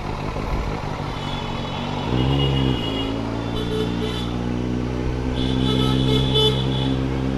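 Motorcycle engine running, with a short rise in revs about two seconds in, amid road traffic with vehicle horns tooting several times.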